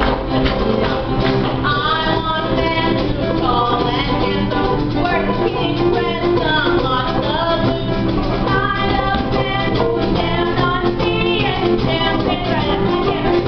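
Musical-theatre song: voices singing over a live instrumental accompaniment that includes guitar.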